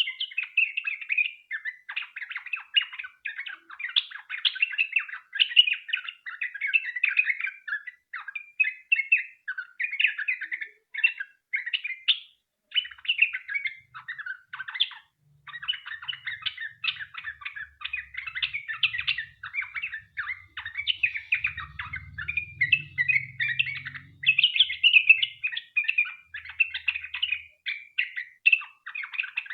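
Yellow-vented bulbul singing a long, unbroken run of rapid chattering, bubbling notes, briefly pausing twice near the middle: a bird in full song.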